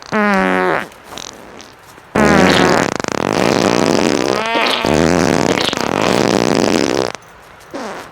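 Loud fart sounds: a short buzzy one at the start, then a long one lasting about five seconds that cuts off near the end.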